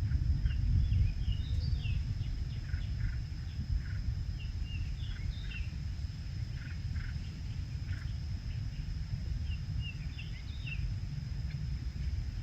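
Outdoor ambience of small birds chirping in short clusters, three times, over a steady low rumble of wind on the microphone. A thin, steady high tone runs underneath.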